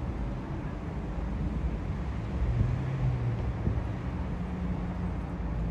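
Low, steady rumble of a jet airliner's engines overhead, swelling slightly about halfway through.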